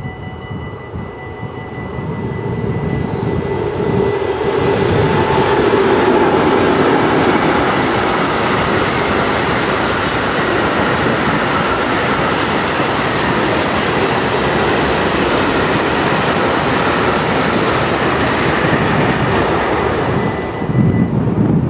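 Freight train of tank wagons behind two diesel locomotives passing close by. The sound swells as the locomotives go past in the first few seconds. Then comes a long, steady rumble and clatter of the wagons' wheels on the rails, which fades near the end as the last wagons clear.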